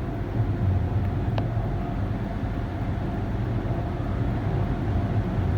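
PDQ Max car-wash air dryers blowing steadily at the end of an automatic LaserWash M5 wash: a constant low rush of air.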